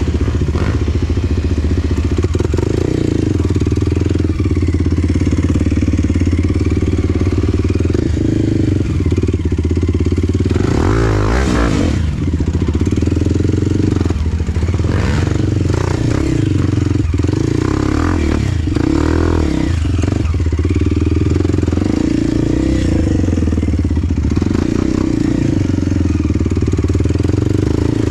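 Enduro dirt bike engine running steadily under way, its pitch rising and falling with the throttle, with occasional clatter. About eleven seconds in there is a brief louder rush of noise.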